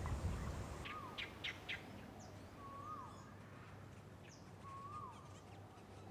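Birds calling outdoors: one bird repeats a short whistled note that rises and then drops, about every two seconds. Other birds add a few quick, higher chirps about a second in.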